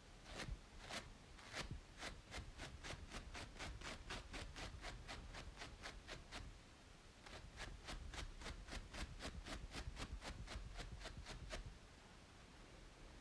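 Rapid, rhythmic scratching on a braided scalp, about three or four short scratchy strokes a second, stopping shortly before the end.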